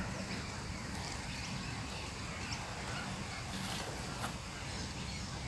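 Outdoor pond-side ambience: a few faint, scattered bird calls over a low, steady rumble.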